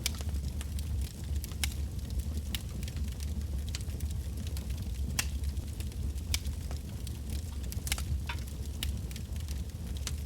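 Wood bonfire burning: irregular sharp crackles and pops from the burning logs over a steady low rumble.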